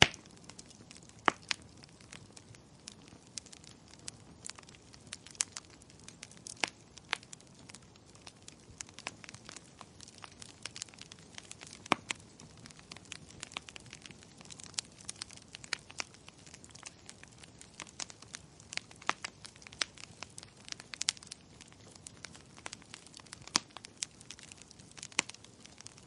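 Wood fire crackling: irregular sharp pops and snaps, several a second, some louder than others, over a soft steady hiss of burning.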